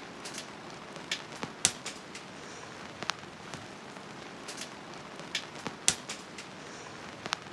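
Burning firewood crackling: irregular sharp pops, a dozen or more, over a steady soft hiss, with the loudest pops about a second and a half in and just before six seconds.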